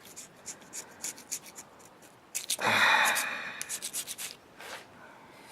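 Razor blade scraper scraping carbon off an aluminum piston: a run of short, light scratching strokes, with a longer, louder scrape about halfway through.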